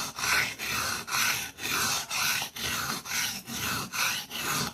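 Knife blade stroked back and forth on a wet whetstone, an even rasping scrape about two or three strokes a second.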